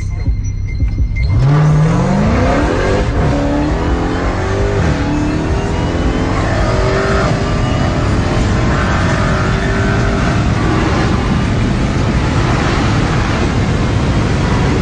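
Racing car engine accelerating hard at full throttle. It comes in suddenly about a second in, and its pitch climbs again and again as it pulls through the gears.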